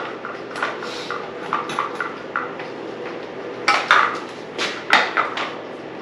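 Metal hand tools clinking and clattering: a string of sharp metallic clinks, the loudest clusters about four and five seconds in, over a faint steady hum.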